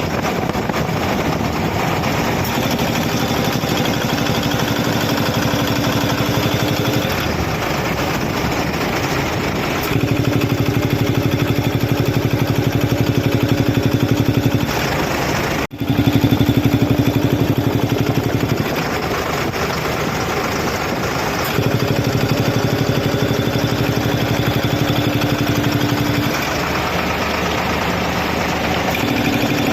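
Air compressor engine running steadily over a hissing noise, its note shifting and growing louder for stretches of a few seconds, with a brief break about sixteen seconds in.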